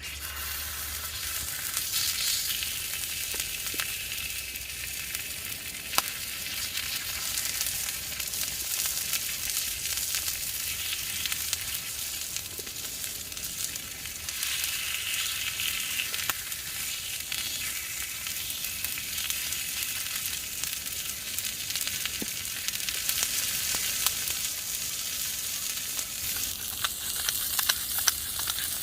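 Food sizzling and frying over heat: a steady hiss with a few sharp pops.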